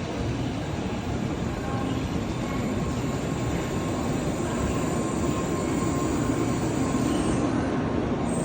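A train running: a steady rail rumble with faint steady hums, growing a little louder in the second half.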